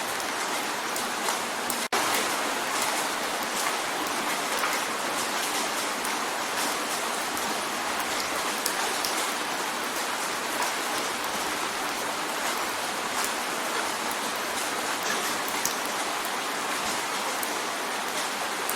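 Steady rain drumming on a window pane: a dense, even hiss dotted with many small drop ticks. The sound drops out for a split second about two seconds in.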